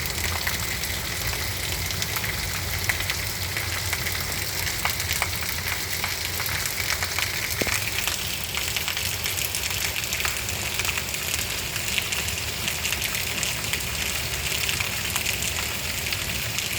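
Steady rain falling: an even hiss with a dense patter of individual drops.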